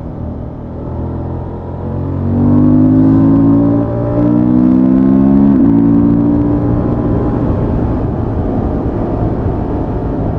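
Honda XL750 Transalp's parallel-twin engine with stock exhaust, heard from the rider's seat: it opens up and climbs in pitch about two seconds in, breaks briefly about four seconds in, pulls again, then eases to a steadier cruise.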